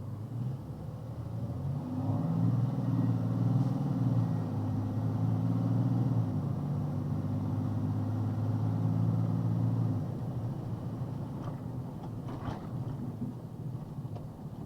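Box truck's engine pulling under throttle: a low, steady engine note that swells about two seconds in, holds for about eight seconds, then drops back as the throttle eases. A few faint clicks near the end.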